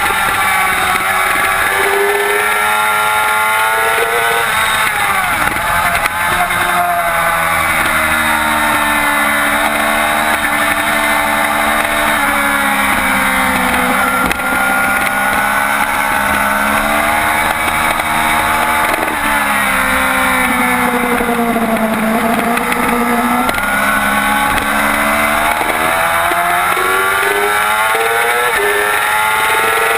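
2007 Yamaha YZF-R6's inline-four engine running hard at race pace. Its pitch falls twice as it slows for corners, and near the end it climbs in short steps through upshifts.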